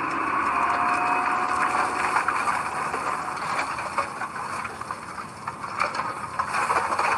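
Heavy earth-moving machinery at work: an engine running steadily under mechanical clatter.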